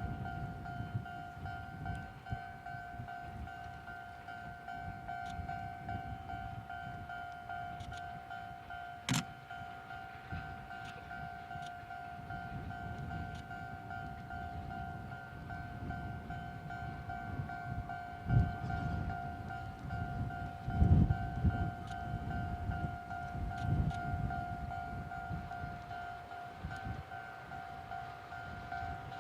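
Railway level crossing alarm ringing steadily in a fast, even pulse, warning of an approaching train, over a low, gusty rumble of wind on the microphone; a single sharp click about nine seconds in.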